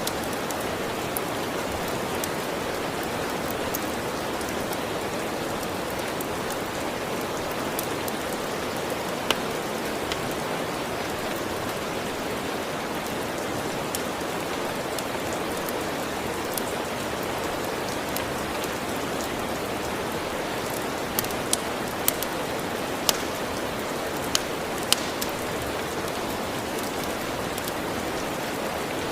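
Steady rain, with scattered sharp crackles from a wood fire, several of them close together about three quarters of the way through.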